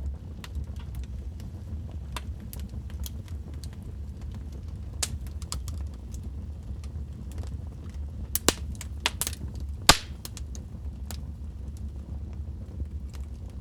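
Wood fire in a fireplace crackling: scattered sharp pops and snaps over a low steady rumble, with a cluster of louder pops in the second half, the loudest about ten seconds in.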